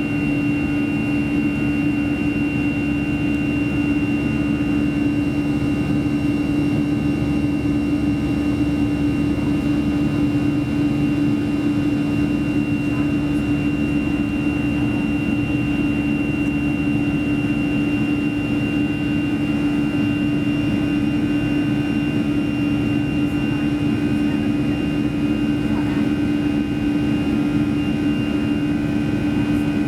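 Steady jet engine hum and airflow inside the cabin of a Boeing 737-300 with CFM56-3 turbofans, holding an even pitch with no change in power.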